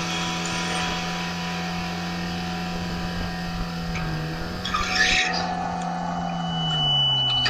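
Jet ski engine running at a steady pitch, over a hiss of rushing water and wind. Near the end the engine note drops, then rises again.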